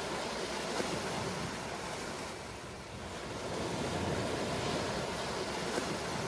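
Ocean waves washing onto shore in a steady rush, easing off about two and a half seconds in and building again with the next wave.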